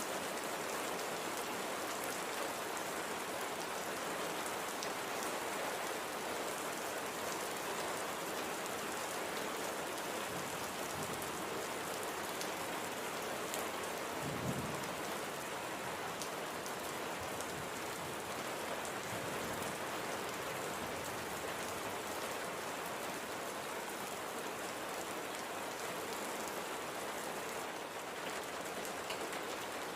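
Light, gentle rain falling steadily on a surface: an even hiss with scattered drops. A brief low thump comes about halfway through.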